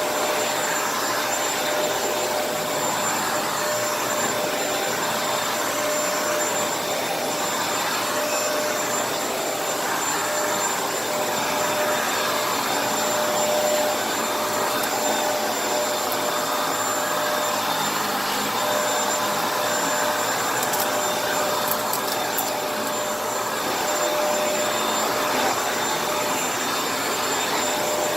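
Kenmore vacuum cleaner running steadily: an even rush of air with a constant motor whine, rising and falling only slightly in level.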